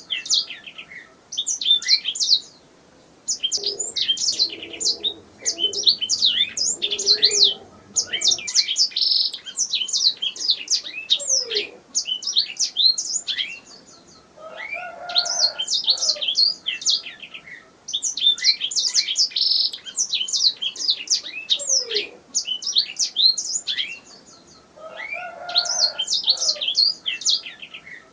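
Domestic canary singing: long phrases of fast, repeated high sweeping notes, broken by short pauses every few seconds.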